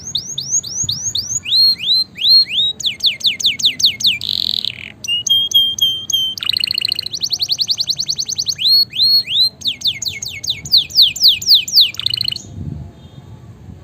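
Domestic canary singing a long song of rapid trilled phrases. Each phrase is a fast run of identical sweeping whistled notes, and the phrases change every second or two. The song stops about 12 seconds in.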